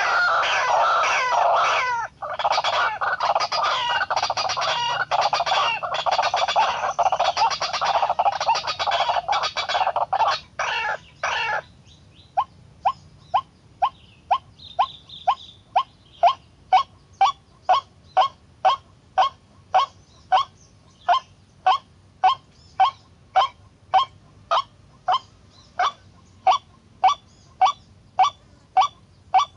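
White-breasted waterhen calling: a dense stretch of overlapping croaking calls, which breaks off about twelve seconds in. It is followed by a steady series of short single notes, about one and a half a second.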